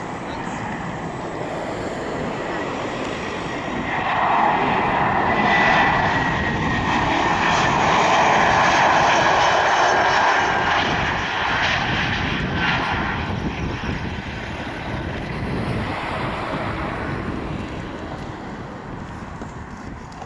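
Airbus A321 jet airliner's twin turbofan engines during landing, the rush of the engines swelling as the plane passes close, loudest for several seconds, then fading away. A whine slowly falls in pitch as it goes by.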